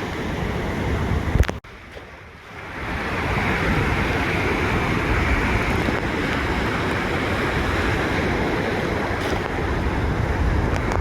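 Ocean surf washing on a beach, a steady rushing of waves with wind buffeting the microphone. The sound breaks off abruptly about one and a half seconds in, then swells back up and holds steady.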